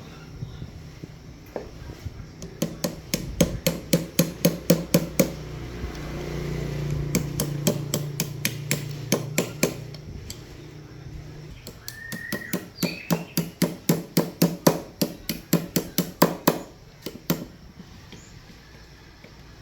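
A hammer striking in quick, even blows, about four a second, in three runs with short pauses between them.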